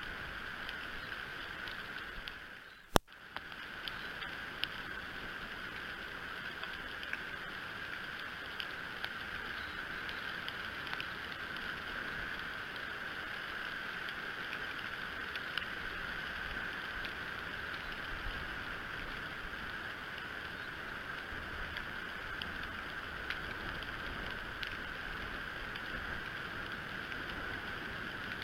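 Steady wind noise on an outdoor nest-cam microphone, with scattered faint ticks. About three seconds in, the sound briefly drops out and a single sharp click is heard.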